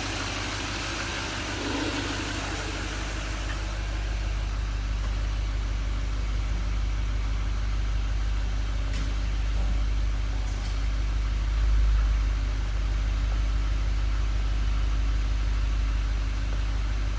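6.6-litre Duramax diesel engine of a Chevy Silverado 3500 idling steadily, swelling briefly louder about twelve seconds in.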